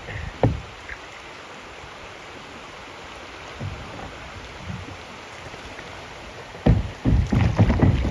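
Kayak on a flowing river: a steady rush of water, with a sharp knock about half a second in and a cluster of loud thumps and knocks near the end.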